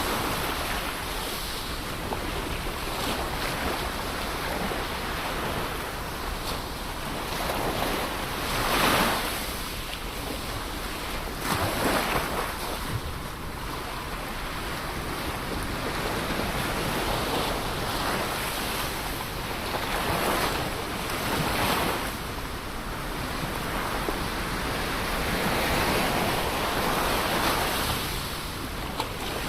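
Ocean waves breaking and washing on a shore: a continuous rush of surf with swells every few seconds, the strongest about nine seconds in.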